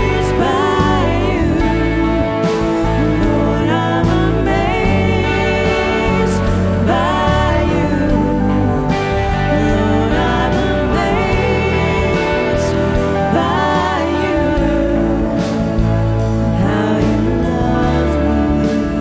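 Contemporary Christian worship music: a full band with singing voices.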